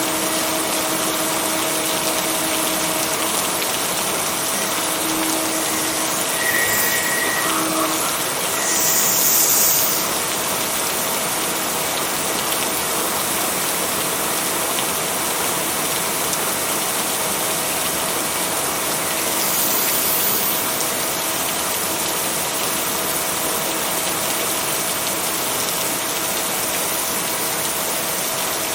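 Steady rain, an even hiss with a faint steady hum beneath it. It swells briefly about nine seconds in and again around twenty seconds.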